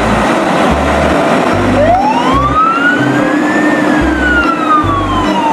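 A siren sweeps up in pitch over about two seconds, then slowly falls again. It sits over a loud, steady noisy rumble and a repeating low beat.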